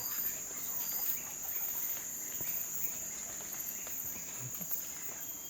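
Insect chorus: a steady high-pitched drone with a fainter, pulsing trill above it, and scattered faint ticks.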